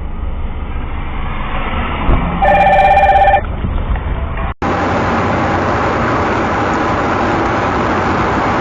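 Steady vehicle rumble with a warbling electronic ring, like a phone's, lasting about a second, about two and a half seconds in. The sound then cuts off abruptly to steady road and traffic noise.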